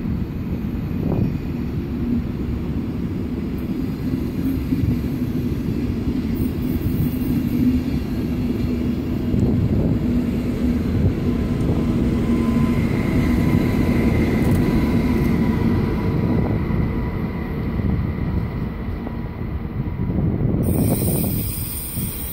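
ICE high-speed electric train departing slowly: a steady rumble of wheels on rail and a low electric hum as the carriages roll past, with a faint whine rising about midway. A brief hiss comes near the end.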